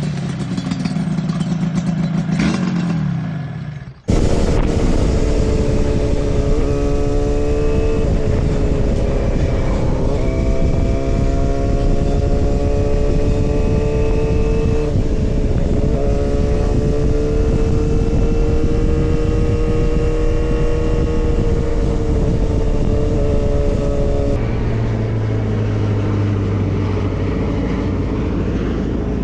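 Motorcycle engine running under way at fairly steady revs with wind and road rush, its pitch dipping and rising slightly as the throttle changes. About four seconds in the sound cuts abruptly from a passage with falling then rising engine pitch to the steady riding note, and near the end the engine tone drops lower.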